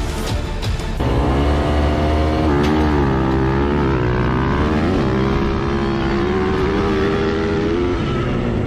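Dirt bike engine revving, its pitch rising and falling repeatedly over a steady low drone, louder from about a second in.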